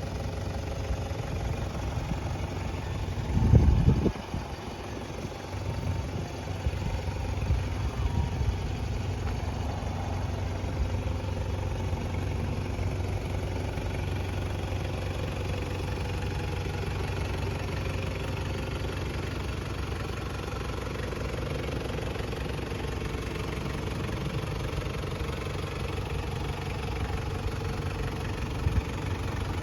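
Toyota Hilux Surf KZN185's 1KZ-TE four-cylinder turbo diesel idling steadily. A brief loud low thump about three and a half seconds in.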